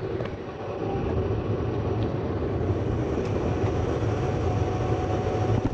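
Gas furnace running on its high stage just after staging up: a steady rumble, slightly louder about a second in.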